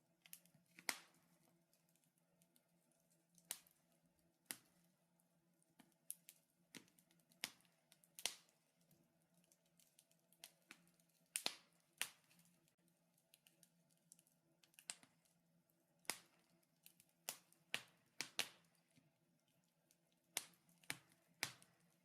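Wood fire crackling in a fireplace: irregular sharp pops and snaps, a couple of dozen spread unevenly, some in quick pairs, over a faint steady hum.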